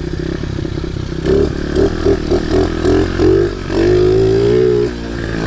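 Small pit bike engine running with a high idle, so the bike keeps going by itself off the throttle; from about a second in the revs rise and fall in quick blips, then are held up for about a second before dropping back.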